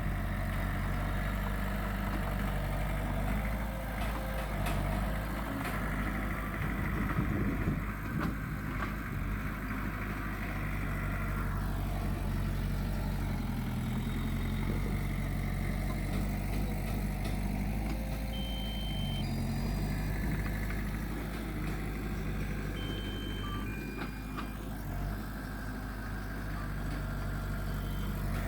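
Diesel engine of heavy earthmoving machinery running steadily, its low pitch shifting slightly a couple of times.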